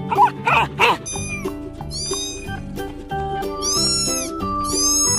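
Cat meowing four times over background music, each meow rising and then falling in pitch, the last two longer. Two short, loud calls come in the first second, before the meows.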